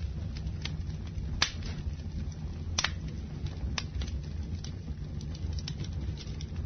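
Campfire burning: a steady low rumble with sharp, irregular pops and crackles of the wood, the loudest about one and a half seconds in and again near three seconds.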